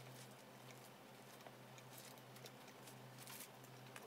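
Near silence: faint mouth sounds of a burger being chewed, small soft clicks over a low steady hum.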